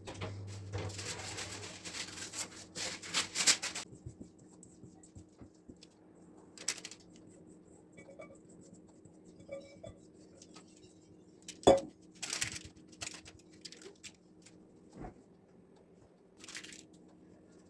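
Rustling and tearing, like paper or packaging being handled, for about four seconds. Then scattered knocks and short rustles, the sharpest about twelve seconds in, over a faint steady hum.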